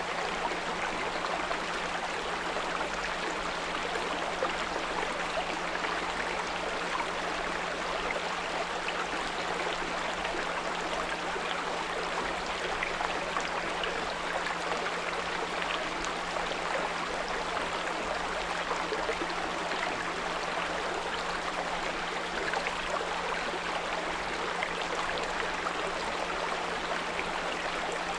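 A small brook babbling steadily over stones, with a steady low 174 Hz pure tone held underneath.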